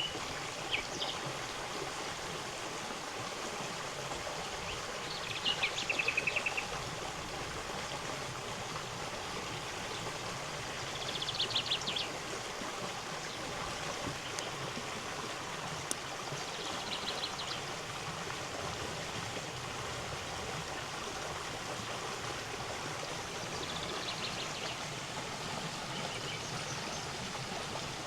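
A river flowing over stones, a steady rush of water. A small songbird sings four short, rapid trilled phrases over it.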